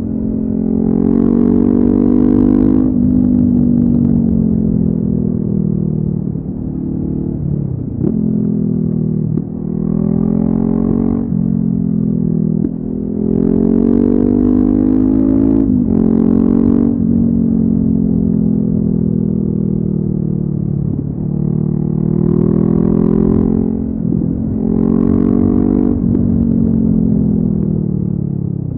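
Honda CB500F parallel-twin engine through a LeoVince aftermarket exhaust, riding hard: several pulls where the engine note climbs and then drops sharply at each gear change, between spells of rolling off the throttle with the note falling away on engine braking.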